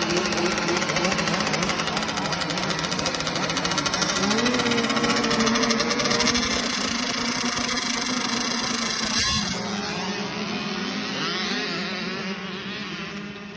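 Dirt bike engine running and revving, its pitch climbing a few seconds in, then growing quieter toward the end.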